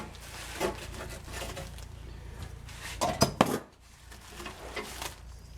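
Light clinks and knocks as a glass pane in a metal window frame is handled on a workbench, with a sharper cluster of knocks about three seconds in.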